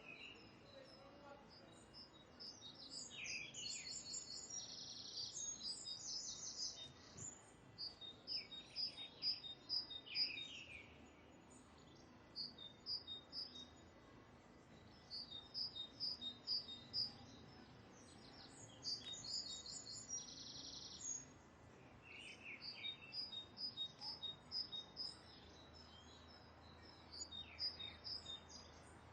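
Birds calling: phrases of quick, high-pitched chirps repeated every few seconds, with a few short downward-sliding notes, over a faint steady background hiss.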